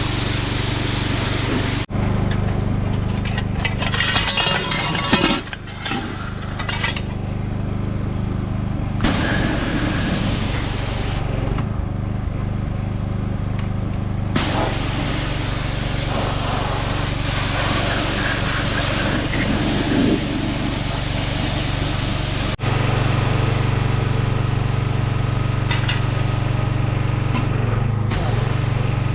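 Gas-engine pressure washer running steadily, its small pull-start engine under a hiss of water spraying from the wand.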